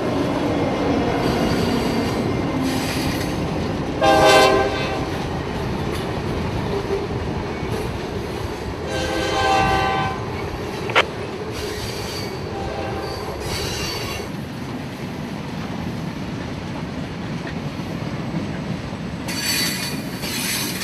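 Mixed freight train rolling past with a steady rumble of cars on the rails. Its horn sounds twice, a short blast about four seconds in and a longer one around nine seconds. High wheel squeal comes and goes near the start, in the middle and near the end.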